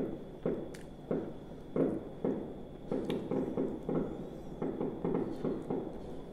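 A person chewing a mouthful of hazelnut wafer ice-cream sandwich, wet, rhythmic chews about two a second, with a couple of sharper crunches of the wafer.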